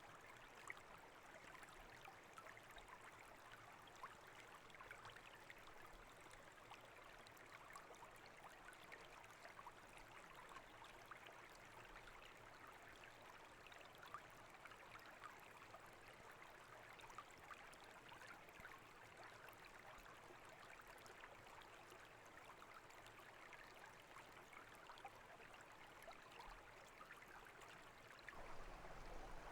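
Small brook babbling and trickling steadily, faint, with tiny splashes and drips all through; it grows a little louder near the end.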